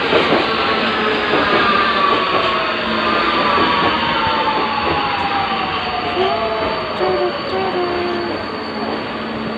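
Metro train running with the whine of its traction motors falling steadily in pitch as it slows, over the rumble of wheels on rail.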